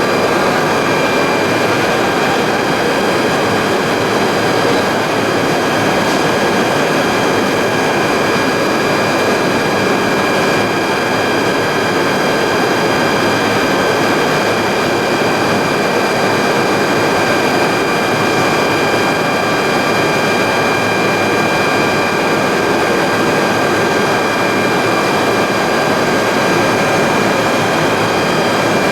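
Plastic pelletizing line machinery running steadily, a loud, even mechanical noise with a constant high whine in several pitches over it.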